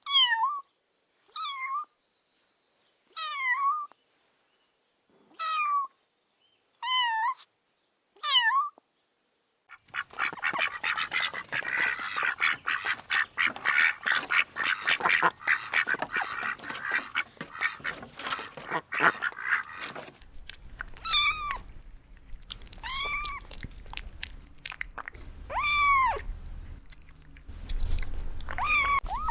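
A kitten meowing repeatedly: about six separate meows with silence between them over the first nine seconds. Then a dense chorus of many young birds peeping rapidly for about ten seconds, followed by several more kitten meows over a low background rumble.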